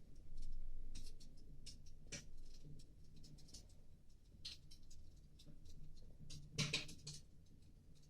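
Fire crackling: irregular sharp pops and crackles, with a louder cluster about six and a half seconds in, over a low steady hum.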